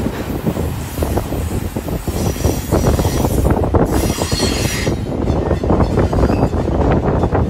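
Double-stack intermodal freight train's well cars rolling past close by, wheels rumbling and clattering steadily. A high metallic wheel squeal rises over the rumble from about two seconds in and fades near the five-second mark.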